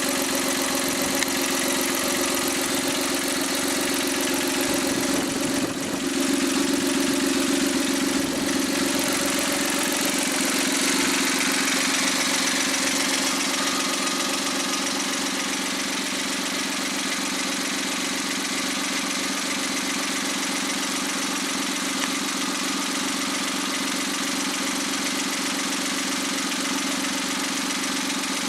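Rebuilt Suzuki K6A 660 cc three-cylinder turbo engine running steadily at idle during its post-overhaul test run. It gets a little louder about six seconds in, then settles back to an even idle.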